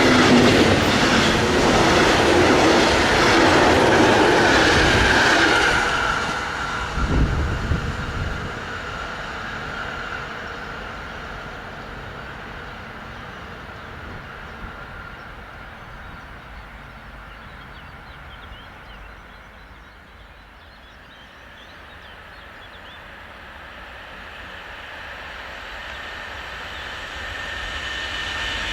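Train passing at speed, its wheels clattering over the rail joints, then dying away after about six seconds. The sound of another train swells again near the end.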